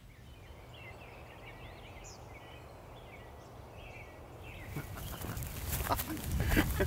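Small birds chirping and calling in short, wavering phrases over a low outdoor rumble. From about five seconds in, a louder noise with many sharp clicks builds up and drowns them out.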